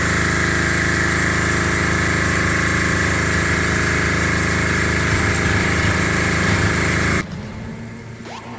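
An engine running steadily at an even idle, then cutting off abruptly about seven seconds in.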